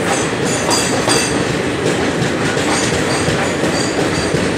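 Passenger train running through a railway tunnel, heard from a coach window: a loud, steady rumble and clatter of wheels on the rails, with brief high squeaks now and then.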